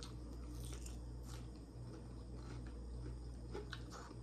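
Soft chewing sounds and a few faint mouth clicks from someone eating fried chicken, over a steady low hum.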